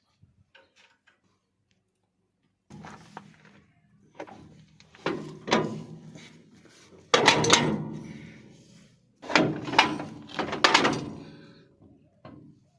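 A series of heavy knocks and clanks, about five strong ones in the second half, each ringing out briefly, after a quiet start.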